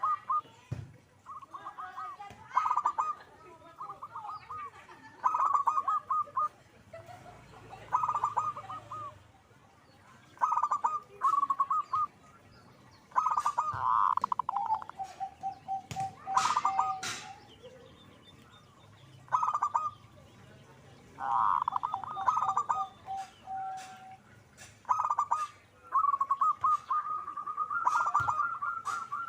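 Zebra dove (perkutut) cooing over and over: short, rapid stuttering trilled phrases, a couple of them trailing off into a long, steady, lower-pitched note.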